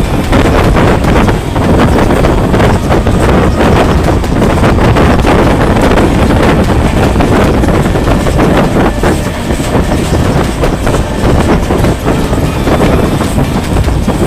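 Train running at speed on rails: a loud, continuous rumble with a dense, rapid rattle from the wheels and cars.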